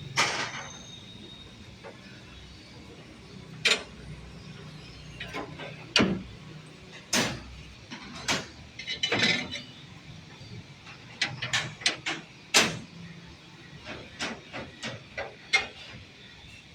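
Irregular knocks and clatter from hand work on a building site, over a low steady background.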